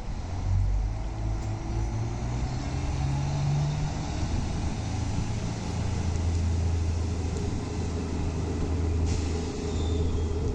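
Diesel engine of a VR Dm12 railbus running with a low drone. Its pitch rises for a second or so about three seconds in, then it settles into a steady hum.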